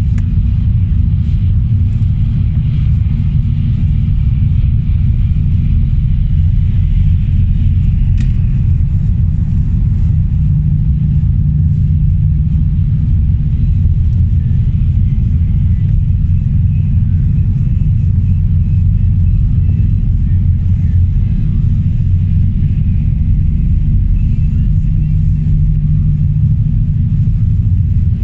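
Steady low rumble of a car driving, with engine and road noise heard from inside the cabin. One short click about eight seconds in.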